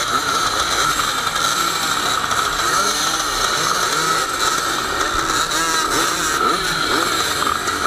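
Several motocross bike engines running at once, their throttles blipped so the pitch keeps rising and falling over a steady high engine note.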